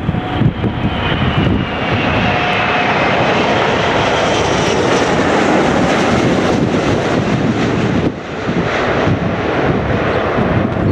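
Airbus A380's four jet engines running loud and steady, with a faint whine gliding slowly down in pitch. Wind rumbles on the microphone underneath.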